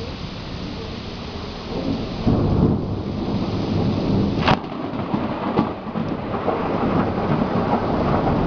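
Thunderstorm: steady heavy rain, with thunder rumbling in from about two seconds in and a single sharp crack about halfway through.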